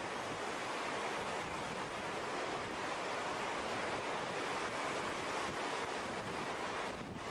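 Steady rushing of rough water, with wind on the microphone.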